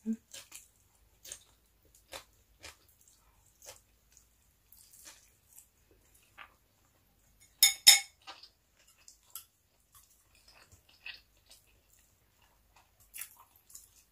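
Chewing a large mouthful of sushi roll, with soft, scattered wet mouth clicks. A little past halfway, two sharp clacks, the loudest sounds here, as wooden chopsticks are set down on the sushi tray.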